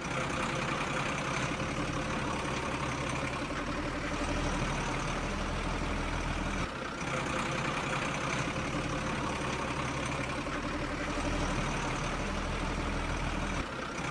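A heavy vehicle engine running steadily at idle, with brief dips about halfway through and near the end.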